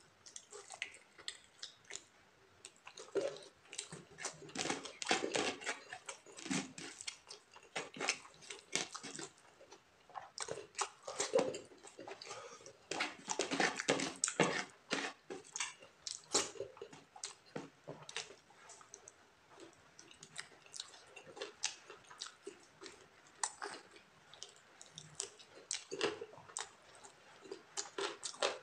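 Close-up eating sounds of a person chewing chicken wing meat and rice: an irregular run of wet mouth smacks and clicks.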